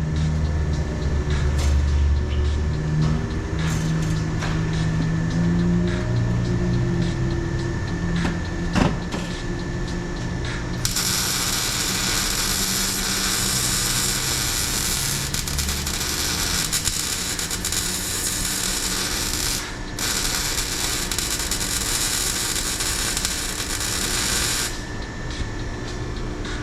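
Welder running on a thin exhaust pipe, likely tacking on a hanger: a steady crackling hiss that starts about eleven seconds in, breaks off for a moment, runs on for about five seconds more, then stops. Before it there is only a steady shop background.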